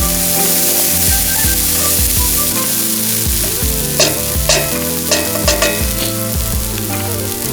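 Steak sizzling steadily in a hot Turk wrought-iron frying pan, with a quick run of sharp clicks from a utensil against the pan about four to six seconds in, under background music.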